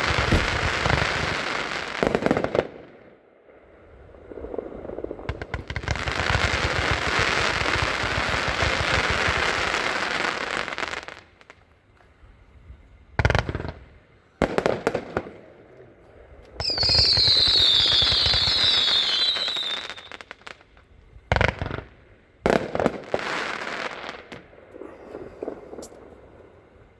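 Black Cat Star Chaser 115-shot consumer firework cake firing. Two waves of dense rapid shots and crackle, then scattered single reports, with a stretch of high, slightly falling whistles about two-thirds of the way through.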